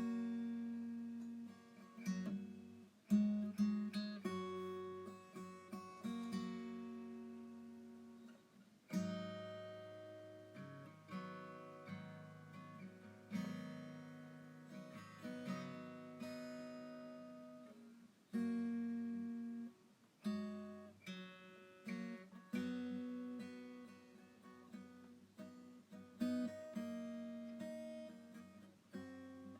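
Background music: acoustic guitar strumming and picking chords, each chord ringing out and fading.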